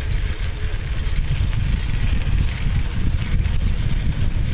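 Steady rumbling wind noise on the microphone of a handheld camera carried on a bicycle coasting downhill.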